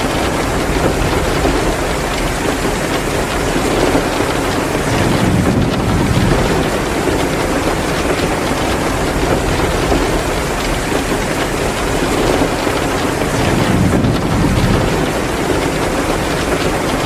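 Heavy rain pouring down steadily, with the crackle of a wood fire in a fireplace mixed in.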